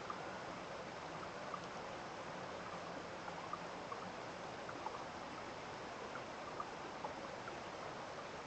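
A small stream running steadily, with scattered short plinks and gurgles of water over the steady rush.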